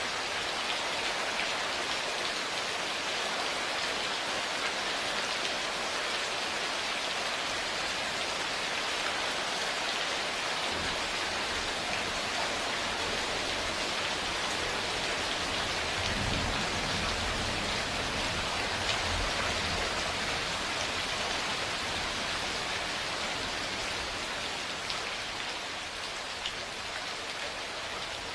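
Steady heavy rain falling, with a low roll of thunder that builds about ten seconds in, is loudest around the middle, and dies away in the last few seconds.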